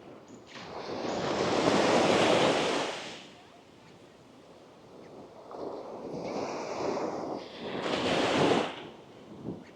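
Small waves of the Andaman Sea breaking and washing up the beach: one surge swells and dies away in the first three seconds, and a second builds more slowly to a peak near the end.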